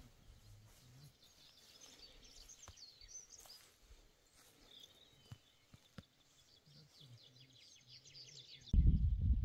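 Songbirds chirping and singing faintly, with a few soft clicks. Near the end a loud low rumble starts abruptly.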